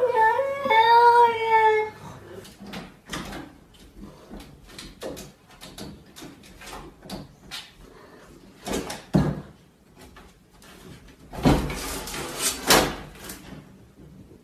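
A cat meowing in one long, wavering call during the first two seconds, followed by scattered knocks and clicks and a brief louder rustle near the end.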